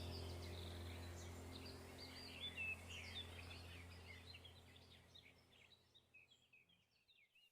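Faint chattering chirps of caged African lovebirds over a low steady hum, both fading away and gone by near the end.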